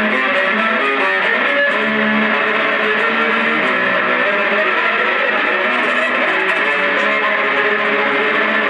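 Distorted, effects-processed solo on an amplified string instrument: sustained, dense notes held at a steady loudness.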